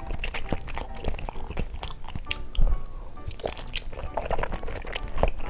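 Close-up biting and chewing of a chunk of firm, bouncy homemade kyoho grape jelly: many short clicks and smacks in quick succession. Soft background music plays underneath.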